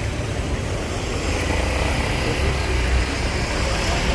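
Road traffic: a steady low engine rumble from a nearby motor vehicle, growing louder about halfway through.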